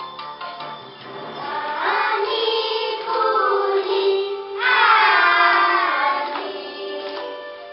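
Music with a group of children singing together; the sung notes swoop in long glides.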